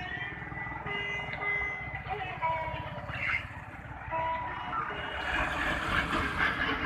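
Motorcycle engine running with a pulsing low rumble, while a beeping electronic tune plays over it.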